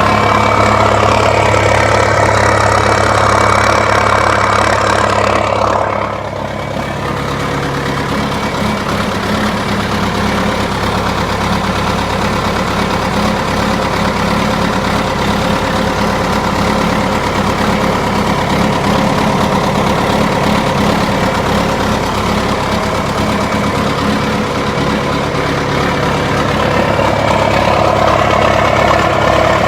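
1978 John Deere 450C crawler loader's diesel engine running through a straight pipe. It steps down to a lower, quieter note about six seconds in, then builds slightly again near the end.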